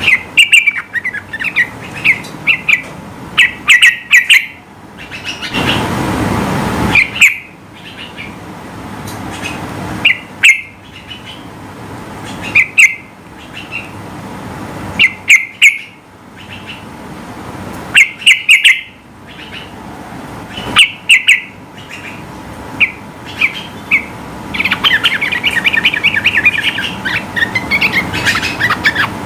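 Yellow-vented bulbul (trucukan) singing loudly: short, sharp chirps repeated in quick clusters, with a brief rushing noise about six seconds in. Near the end it breaks into a fast, unbroken chattering run.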